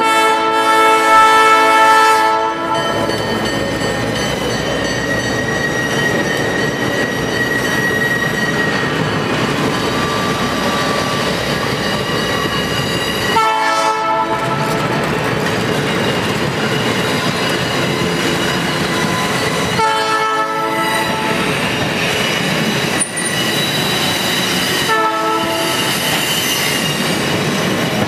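Diesel locomotive horn sounding a long blast at the start, then short blasts roughly every five or six seconds. In between, passenger cars rumble steadily past on street track.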